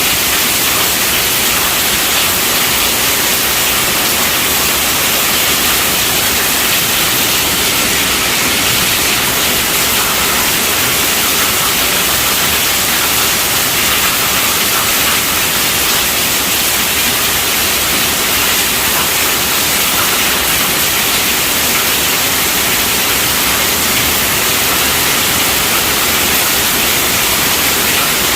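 Steady, even hiss of continuous rainfall, with no thunder or other distinct sounds.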